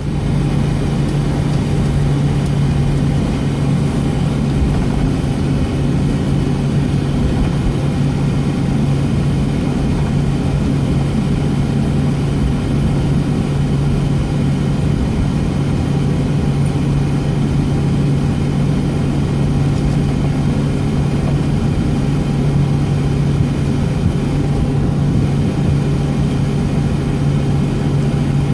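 Steady cabin noise inside a Boeing 757 on the ground, its Pratt & Whitney PW2037 engines running at idle: an even hum with a constant low drone.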